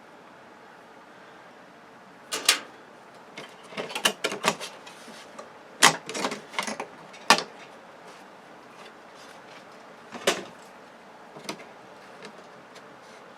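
Scattered sharp clicks and knocks of hard plastic and metal parts being handled and set down during the teardown of a flat-screen TV, in irregular clusters.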